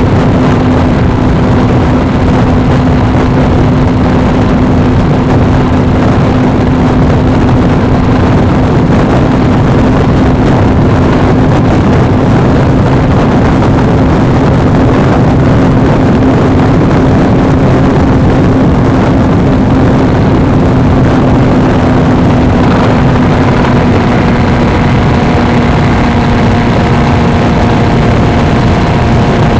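Suzuki V-Strom 250's parallel-twin engine running at a steady cruise, a constant drone under a dense rush of noise, as heard from a camera on the moving motorcycle. The engine note drops slightly in pitch near the end.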